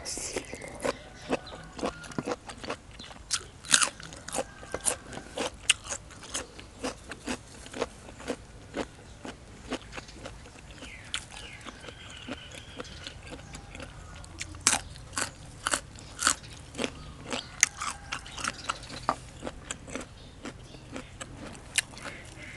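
Close-miked eating: crisp beef tripe salad and raw vegetables, among them a yard-long bean, bitten and chewed with many sharp crunches in quick succession.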